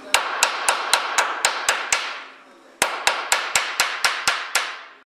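A hammer striking sheet steel on a rust-repair patch: two quick runs of about eight ringing blows each, about four a second, with a short pause between.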